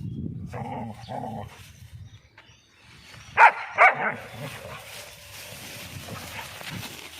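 Dogs playing: low rumbling noises, then two loud, sharp barks in quick succession about halfway through.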